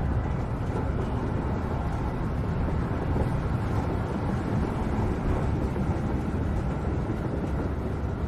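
Steady rumble of a subway train running, heard from inside the carriage.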